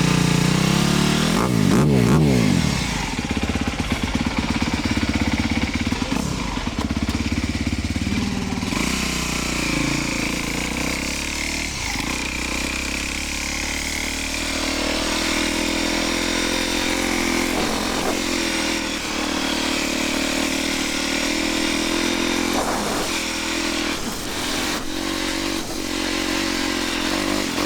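Motocross dirt bike engine revving up and down through the gears for the first several seconds, then running at a steadier, lighter throttle for the rest.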